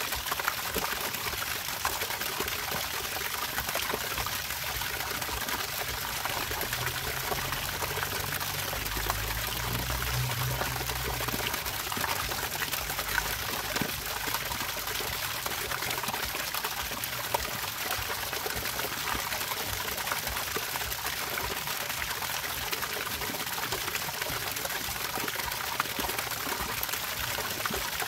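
Running water trickling and splashing steadily, with a faint low rumble for a few seconds about a third of the way in.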